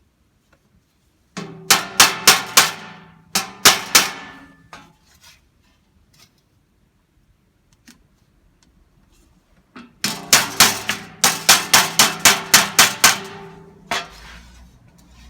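Hammer blows on sheet steel in two quick runs, the second longer at about four strikes a second, with the metal ringing under the blows. This is typical of shaping new steel to patch rusted-out bodywork.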